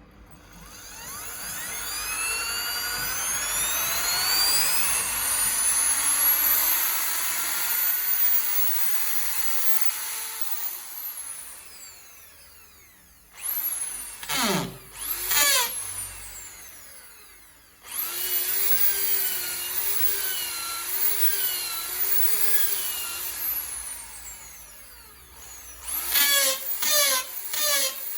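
Bosch GSB 13 RE corded drill's motor being run on its variable-speed trigger. It spins up over several seconds to a high whine and winds down. Then come a few quick trigger blips, a longer run with the speed wavering up and down, and a rapid series of short bursts near the end.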